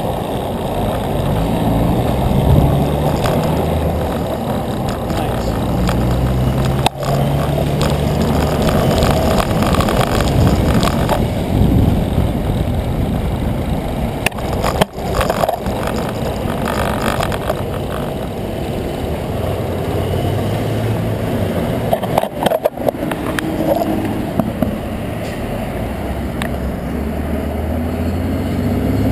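Wind rushing over the microphone and bicycle tyres rumbling on pavement while riding, with road traffic in the background and a few brief crackles.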